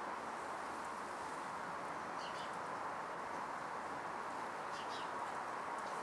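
A few faint, short high bird chirps, about two seconds in and again near five seconds, over a steady background hiss.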